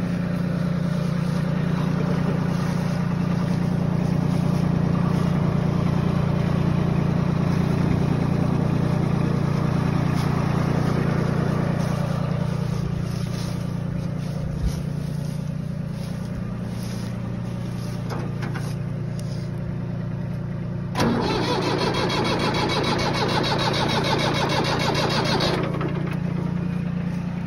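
An engine runs steadily at idle. About 21 seconds in, a click is followed by about four and a half seconds of loud, fast, even rattling that stops abruptly.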